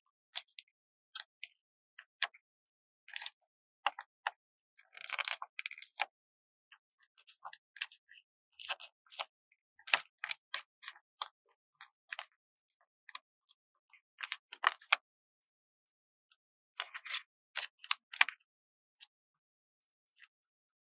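Stickers being handled close to the microphone: crisp crackles and small taps of sticker paper being peeled and pressed down, in irregular short bursts with a longer crackling stretch about five seconds in and again near seventeen seconds.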